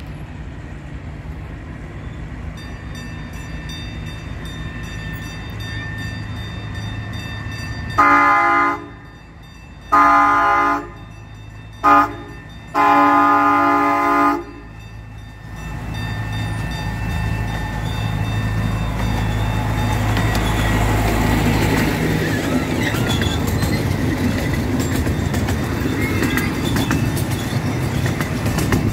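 Miniature train's diesel locomotive sounding its horn in two long blasts, a short one and a long one, the grade-crossing pattern. Its engine and the rumble of the cars on the rails then grow louder as the train rounds the bend and passes close by.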